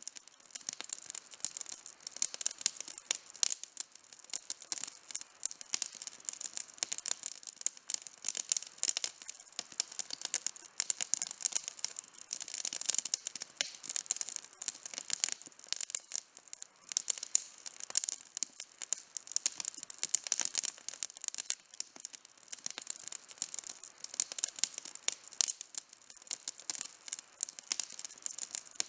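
Wood campfire burning with dense, continuous crackling: many fast sharp pops and snaps, crisp and high-pitched, with almost no low rumble.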